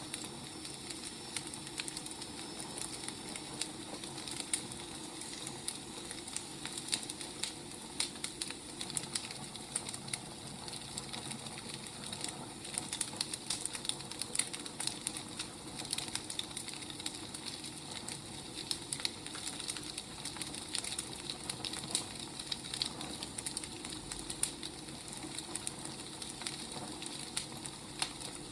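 Firewood burning: a steady soft hiss with frequent irregular crackles and pops.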